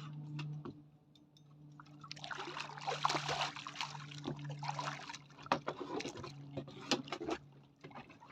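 Water splashing and sloshing for about three seconds as a hooked eel is brought to the surface and landed, followed by several sharp knocks and clicks. A steady low hum runs underneath.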